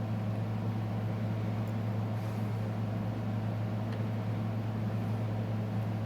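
A steady low hum that does not change, with a faint background hiss.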